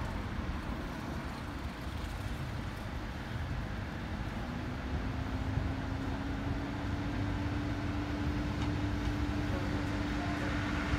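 Class 153 diesel multiple unit approaching the level crossing: a low rumble that slowly grows louder. A steady humming engine note joins about four seconds in, rising slightly and then holding.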